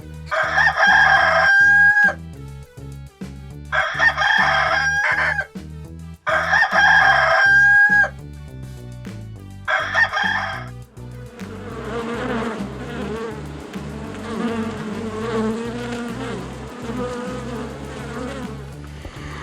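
Rooster crowing three times in full and once cut short, each crow a held call that drops at the end. It is followed by a lower, wavering, buzzy sound, with background music underneath.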